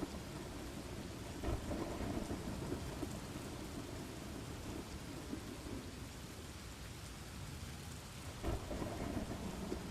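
Steady rain with rolling thunder: an even hiss of rainfall, with low rumbles swelling about a second and a half in and again near the end.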